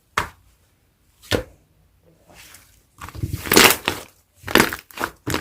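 Thick, fluffy clay slime pressed and poked by hand, giving short sharp sticky pops and squishes. There is one pop near the start and another about a second later, then a quicker run of pops and squishes over the last two and a half seconds.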